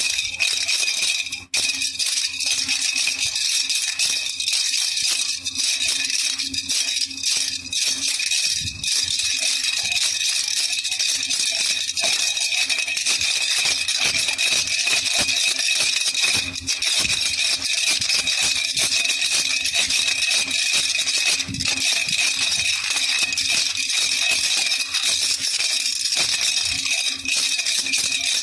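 Baby rattle (jhunjhuna) shaken continuously: a dense, fast rattle of loose pellets inside, with one brief break about a second and a half in.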